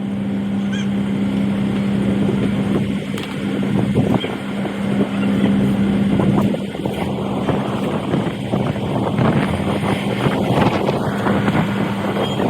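A steady motor hum that fades out about six and a half seconds in, with irregular knocks and metallic clatter throughout.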